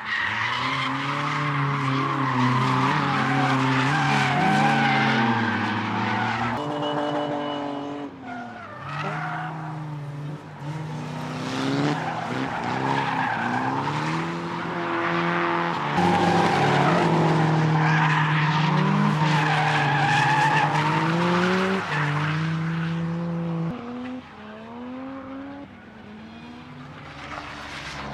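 Drift cars sliding through a corner with their tyres squealing and skidding. The engines rev up and down over and over as the throttle is worked through the slide. The cars fade somewhat near the end.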